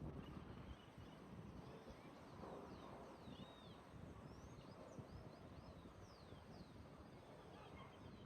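Faint outdoor birdsong: a scattering of short, high chirps that slide down in pitch, busiest in the middle of the stretch, over a low, steady background rumble.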